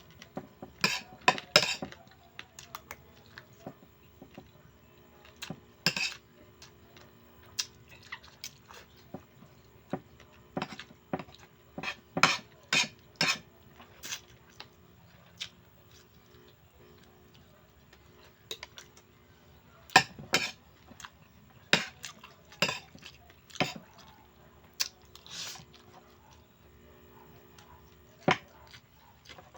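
Spoon and fork clinking and scraping against a plate while eating, as scattered sharp clicks, some coming in quick clusters of several.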